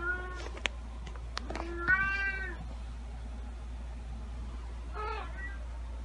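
A cat meowing three times: a short meow at the start, a louder, longer one about two seconds in, and a faint short one about five seconds in, over a steady low hum.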